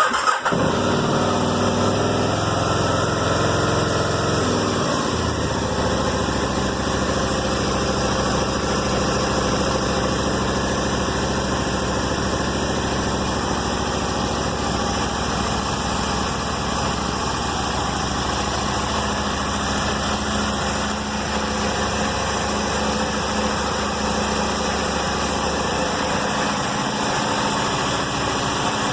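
2005 Aprilia Tuono 1000's 60-degree V-twin cold-started after sitting a month: it catches right at the start, runs at a raised fast idle for about five seconds, then drops to a steady lower idle.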